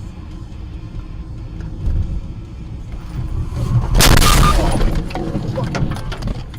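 Car collision: steady road rumble, then a loud crash about four seconds in, followed by a second or two of clattering debris.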